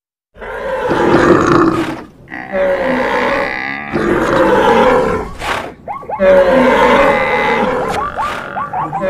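A dense mix of animal sound effects for a stampede: roars and grunts layered together, with a run of short rising chirps twice. It starts after a brief silent gap.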